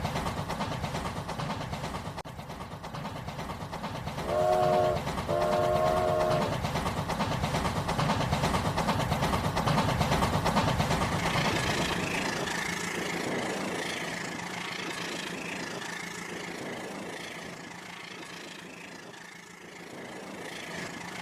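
Toy train running on its plastic track, a steady rattle of motor and wheels, with two short horn toots about four and five seconds in. About halfway through a steady high whine comes in while the running rattle fades.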